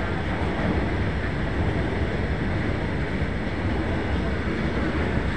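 A goods train's open-top freight wagons rolling past: a steady, even rumble of steel wheels on rail.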